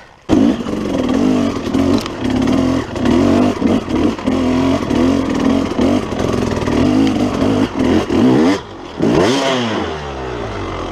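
KTM 300 two-stroke dirt bike engine running under load on a trail, its pitch rising and falling with the throttle. Near the end it drops off briefly, then the revs sweep down and back up.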